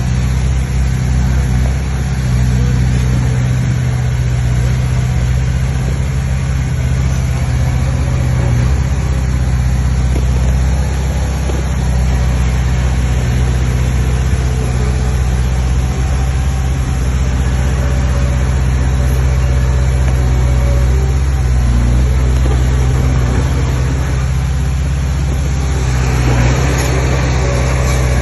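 Diesel engine of heavy earthmoving machinery running steadily with a deep, even hum, picking up a little harsher noise near the end.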